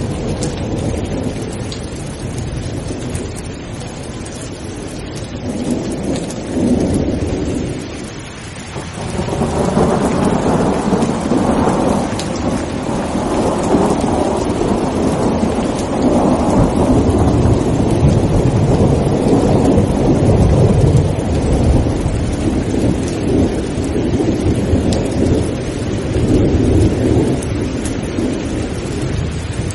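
Steady heavy rain with rolling thunder. The rumble eases off about eight seconds in, then a long peal builds and rolls on in swells for the rest of the time.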